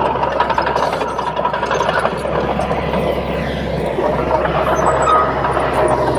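Komatsu D31P crawler bulldozer's diesel engine running steadily under load, with the metallic clatter of its steel tracks.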